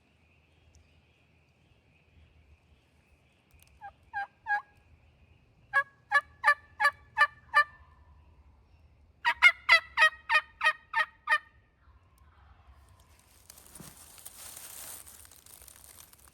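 Turkey yelping in three runs: three short notes, then about seven, then about nine louder notes in quick succession. A rustling noise follows near the end.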